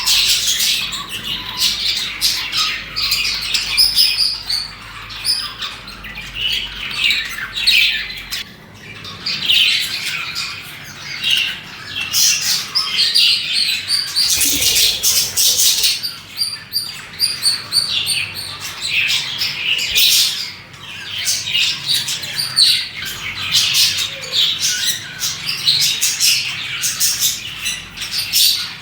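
A group of budgerigars chirping and chattering without pause, a dense overlapping mix of short warbling calls and harsher squawks.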